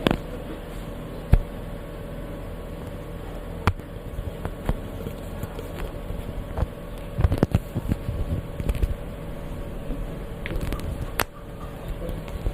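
ASMR trigger sounds: scattered light taps and clicks at irregular spacing, with a few sharper ones about a second in and near the end, over a steady low hum.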